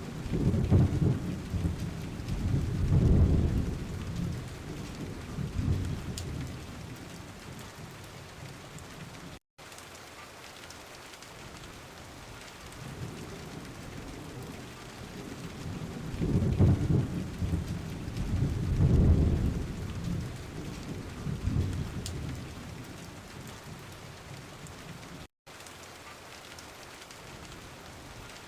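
Steady rain with rolling thunder: a long low rumble at the start and another about halfway through, the rain going on evenly between them. The sound cuts out for an instant twice.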